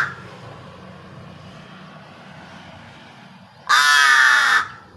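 A crow giving one loud, harsh caw lasting about a second, a little over halfway through, just after the tail of a previous caw dies away at the start.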